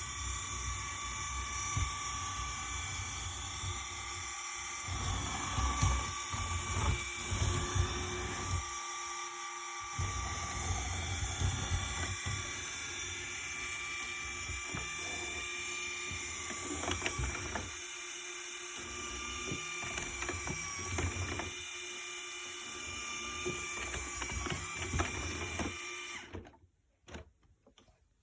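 Electrolux Pure i9.2 robot vacuum cleaner running: a steady motor whir with a constant whine, mixed with irregular low knocks and rumbles, until it stops about 26 seconds in.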